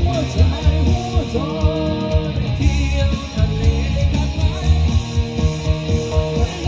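Rock band playing: guitar over a bass line and a steady beat.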